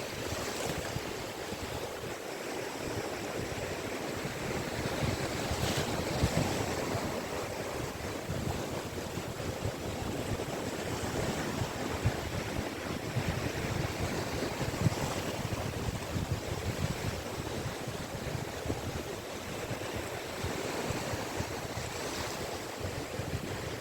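Sea waves breaking and washing on a beach, a continuous surf noise that swells and eases, with a few brief brighter splashes and some wind on the microphone.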